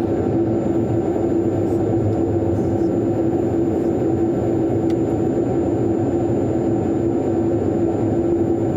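Boeing 787-9 cabin noise: a steady, even rush of airflow and engine sound with a constant low hum running through it.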